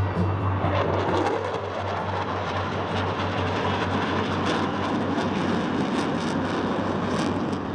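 Aircraft flying over an airshow crowd, a steady engine noise whose pitch sweeps near the start as it passes.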